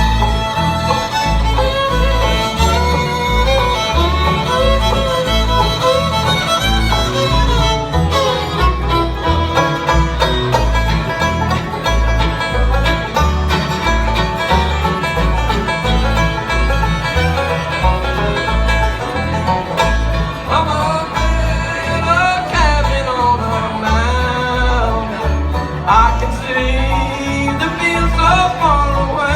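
Bluegrass band playing an instrumental break: fiddle carrying the melody with sliding notes over banjo, guitar and a steady bass beat.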